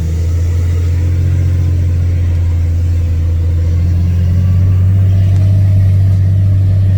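Truck engine running with a steady low drone, as heard from inside the vehicle; it grows slightly louder about four seconds in.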